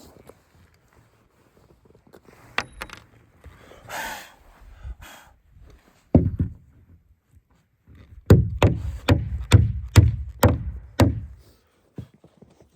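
Claw hammer driving nails into wood framing by hand, with a few scattered knocks and a scrape, then a quick run of about nine or ten hammer blows near the end.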